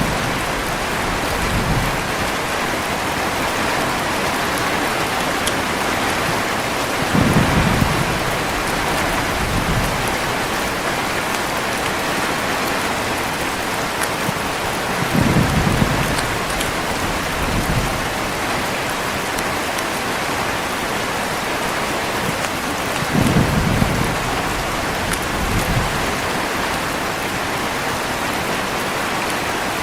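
Heavy rain falling steadily, with low rolls of thunder three times, about eight seconds apart.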